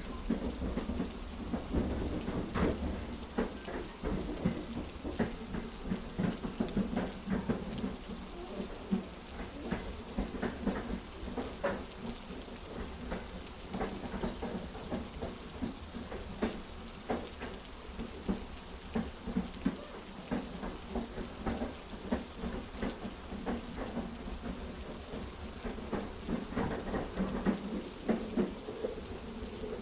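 Heavy rain mixed with a train carriage's low rumble and frequent short clacks of the wheels on the track.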